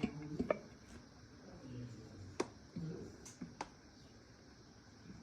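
A few scattered sharp clinks of dishes and cutlery during a meal, with faint voices in between.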